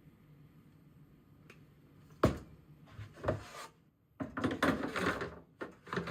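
Kitchen handling noises: a sharp knock about two seconds in, a few lighter knocks, then a longer stretch of rubbing and clattering, as of cookware or a cupboard or drawer being handled.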